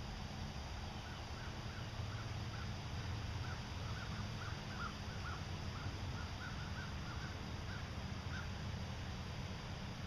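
A bird calling faintly in a quick run of short repeated notes, about two or three a second, from about a second in until near the end, over a low steady rumble.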